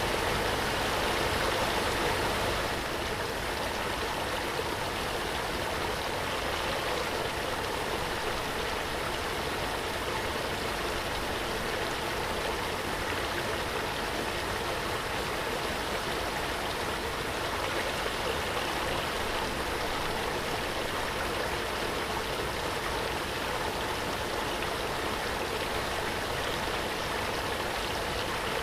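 Waterfall: water pouring and splashing in a steady rush, dropping slightly in level about two and a half seconds in.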